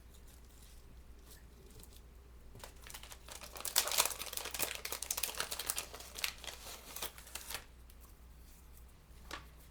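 Paper craft flowers crinkling and crackling as they are handled and folded in half, a dense run of rustling from about three seconds in until nearly eight seconds. A low steady hum sits underneath.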